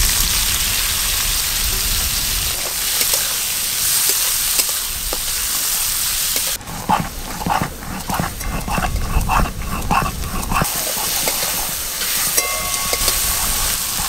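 Small shrimp sizzling and frying in hot oil in a wok, the hiss starting as they are poured in. For about four seconds in the middle the sizzle gives way to a quick rhythmic run of short strokes, about three a second, before the frying returns.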